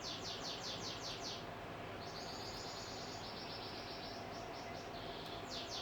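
Domestic canary singing: a rapid series of repeated falling whistled notes, about seven a second, gives way to a held trill, then more quick falling notes near the end.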